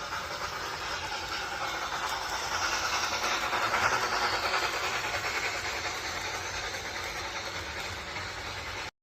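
A train running past on its track, growing louder to a peak about four seconds in and then easing off, before the sound cuts off suddenly near the end.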